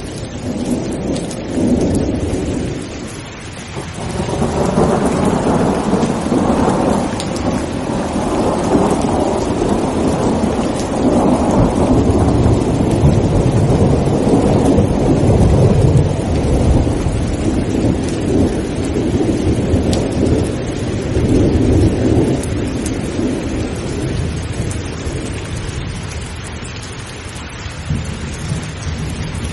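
Rain falling steadily with a long rumble of thunder that builds from about four seconds in, is loudest around the middle, and dies away near the end.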